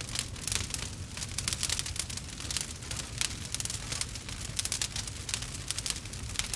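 Wood fire crackling in a fireplace: a dense run of small sharp pops and ticks from the burning logs, over a low steady rumble.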